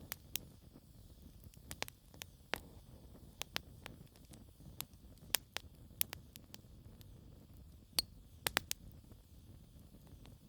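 Wood fire crackling: irregular sharp pops and snaps over a low steady rumble of burning logs, with a quick cluster of pops about eight seconds in.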